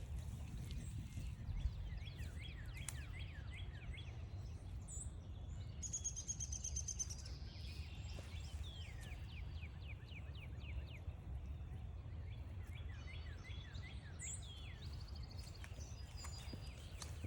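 Wild birds calling in woodland: runs of short, quick downward chirps throughout, with a high buzzy trill about six seconds in, over a steady low rumble.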